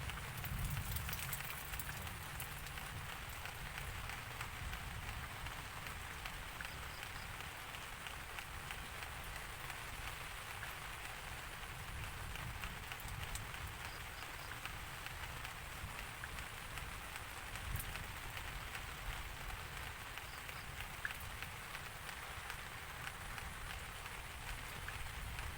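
Steady rain falling, with a dense patter of drops and a low rumble underneath that is strongest in the first second or two.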